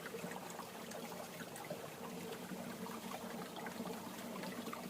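Small forest stream running steadily over rocks, a soft even rush of water with faint light ticks.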